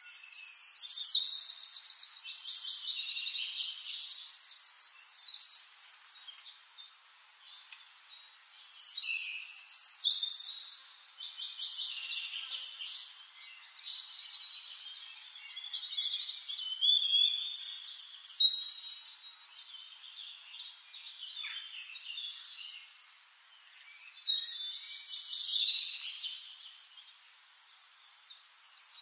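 Birds singing: quick high chirps and trills in four louder bouts of a few seconds each, with quieter song between.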